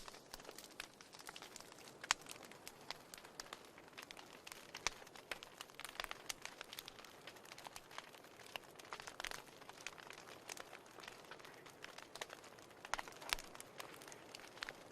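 Wood fire crackling in a fireplace: faint, irregular snaps and pops over a soft hiss, with a sharper pop about two seconds in.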